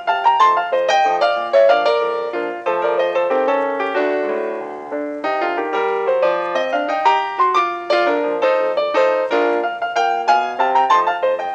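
Solo piano music: a steady stream of quickly struck notes over lower chords, each note ringing and fading.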